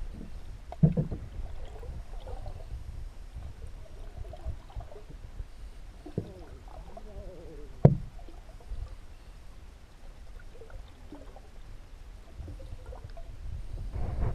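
Canoe on the river: a steady low water rumble, with two sharp knocks about one second in and again near eight seconds.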